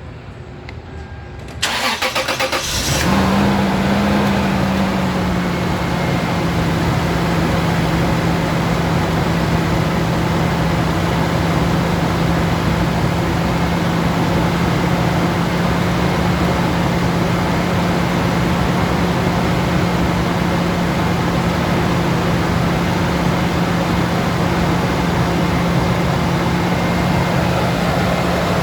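Engine cold start. The starter cranks for about a second and the engine catches, runs briefly at a slightly raised speed, then settles into a steady idle.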